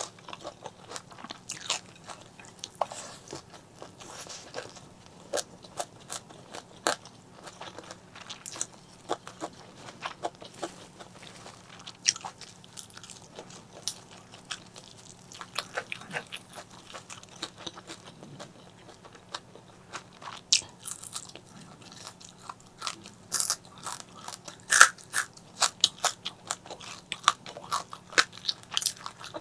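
Close-miked eating: a person biting and chewing crunchy food, with many sharp, irregular crunches that grow thicker and louder in the last third.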